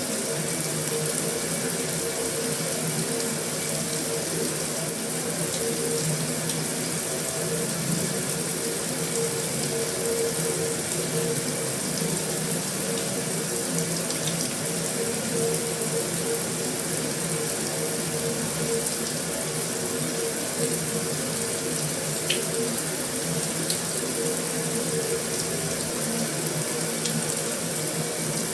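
Heavy rain falling steadily on a metal roof, an even, unbroken wash of sound with a few faint ticks of single drops.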